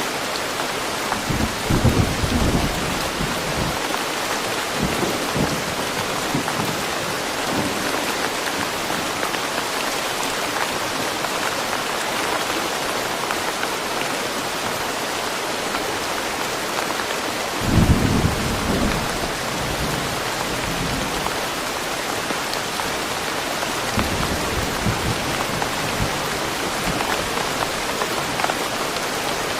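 Steady rain falling in a forest, with a low rumble of thunder about two seconds in, another about eighteen seconds in, and a few fainter rumbles between.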